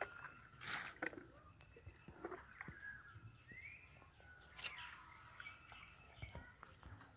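Birds chirping faintly with short rising and falling calls, and a couple of brief sharper clicks about a second in and past the midpoint.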